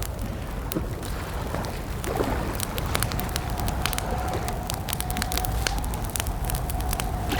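Campfire crackling: a stream of sharp pops and snaps over a low rumble. A faint steady whistling tone comes in about three seconds in.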